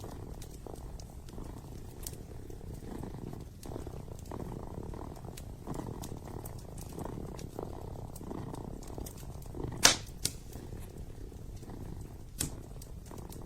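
Kitten purring close up, a steady low rumble that swells and eases with each breath. Wood fire crackling alongside, with sharp pops, the loudest about ten seconds in.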